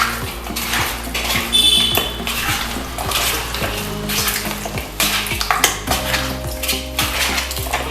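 Bone-in chicken pieces being mixed with their marinade in a bowl, with repeated knocks and clinks against the bowl. There is a brief ringing clink about a second and a half in.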